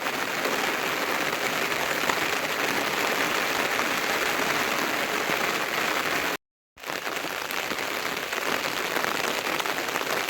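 Heavy rain falling steadily, a dense even hiss. It cuts out completely for a moment about six seconds in, then carries on.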